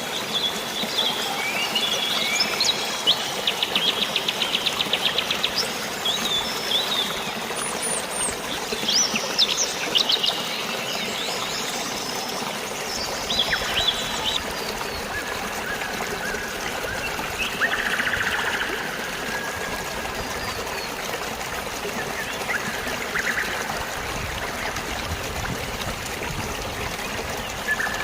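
Steady rush of flowing water and light rain, with birds chirping and trilling over it, most busily in the first half: a rapid trill, then scattered chirps and a warbling call.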